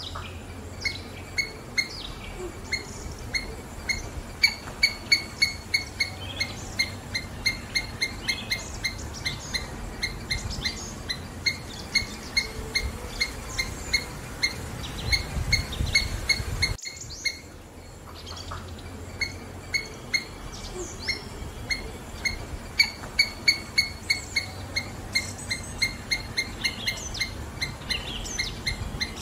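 Songbirds chirping and calling, with a long run of short, sharp, evenly repeated chip notes about two a second. The sound drops away briefly about seventeen seconds in, then resumes.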